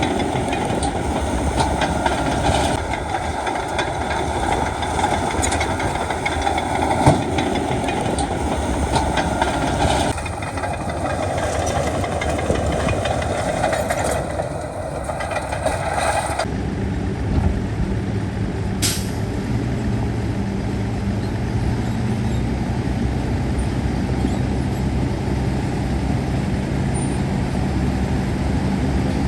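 Diesel engines of heavy earthmoving machinery running under load, with a few sharp metallic clanks. About sixteen seconds in, the sound changes abruptly to a lower, steadier engine drone.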